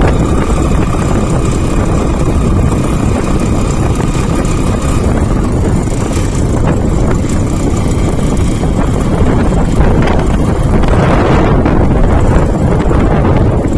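Steady rush of wind buffeting the microphone while riding a motorcycle, with the road and engine noise underneath. A faint steady whine fades out about five seconds in.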